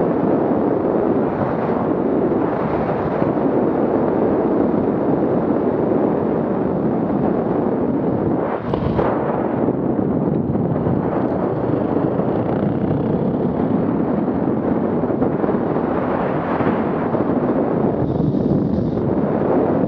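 Loud, steady rumble of an off-road vehicle's engine running hard, with a brief dip about eight and a half seconds in.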